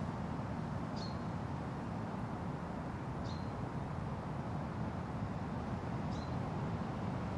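Steady wind rushing, with a bird giving the same short, high, downward-sweeping call three times, two to three seconds apart.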